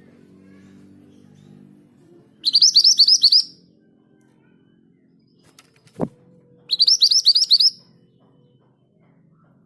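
Scarlet minivet singing its rolling song: two quick phrases of about half a dozen rising whistled notes each, a few seconds apart. A single sharp knock falls between them.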